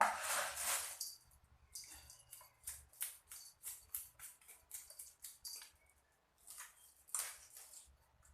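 A knife working over a kissing gourami (ikan biawan) while it is cleaned: a run of short, irregular scraping and clicking strokes, with a longer rasp at the start and another near the end.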